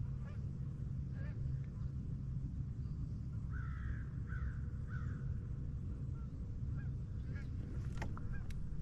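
Geese honking, a cluster of short calls a few seconds in and scattered calls later, over a steady low rumble. A couple of sharp clicks near the end.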